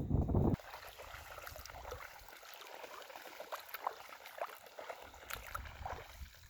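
Water trickling at a river's edge: a faint scatter of small drips and splashes. A low rumble cuts off about half a second in.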